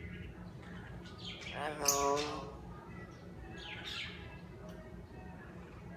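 Bird calls: a few short chirps sliding downward in pitch, and about two seconds in one louder call with a wavering pitch.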